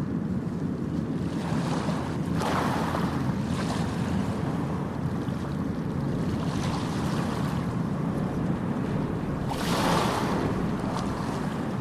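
Ocean surf: a steady low rumble of waves, with a wave breaking and washing in about two seconds in and another at about ten seconds.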